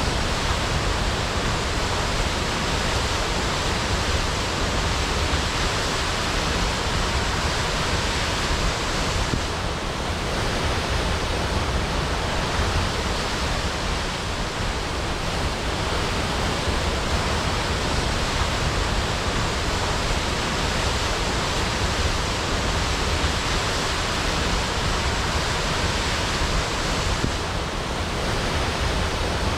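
Waterfall crashing: a steady, dense rush of falling water, unbroken throughout.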